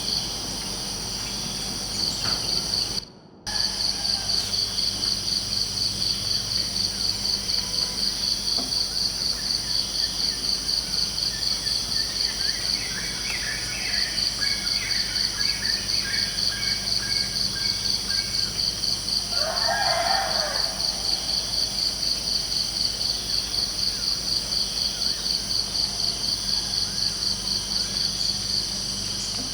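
Crickets chirping in a steady pulsing trill, with birds chirping around the middle and a short, lower bird call about twenty seconds in. The sound cuts out briefly about three seconds in.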